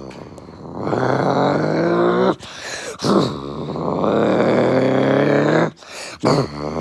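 A voice making drawn-out growling engine noises, long vroom-like sounds that rise and fall in pitch, broken by short pauses for breath.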